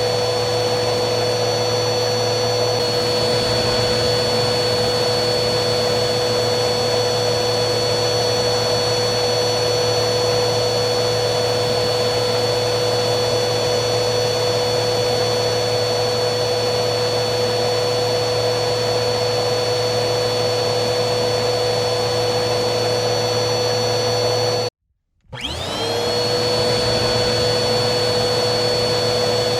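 Vacuum cleaner motor running steadily with a whining hum. Near the end it cuts out abruptly for about half a second, then whines back up to full speed.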